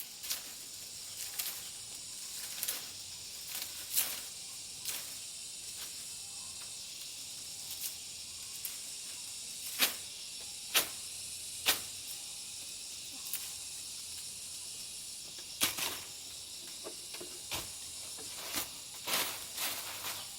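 A steady high hiss, with scattered sharp clicks and snaps. Three of the loudest snaps come about a second apart near the middle, and a few more come in the last third.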